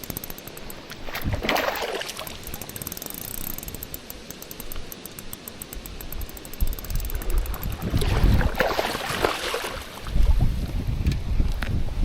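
Strong wind buffeting the microphone, heavy low rumbling gusts that build through the second half, with a couple of short rushing noises in between.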